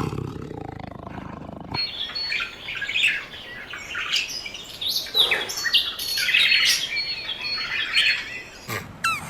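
A low rumbling growl for the first second and a half, then birds chirping: many short, overlapping high chirps and whistles in a busy chorus.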